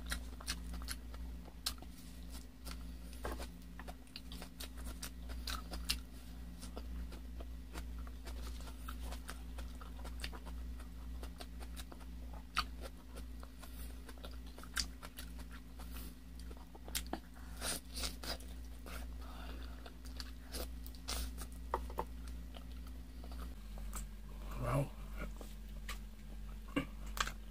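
Close-miked chewing of braised chicken, with many short wet mouth clicks and smacks. A steady low hum runs underneath.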